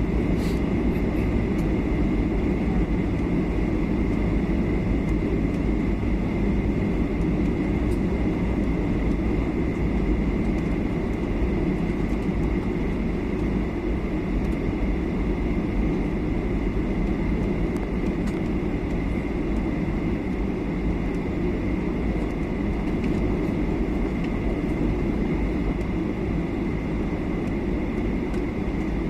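Steady cabin noise inside a Boeing 737-800 on its landing approach: the rumble of its CFM56 turbofan engines and the rush of air past the fuselage, with a thin steady whine above the rumble.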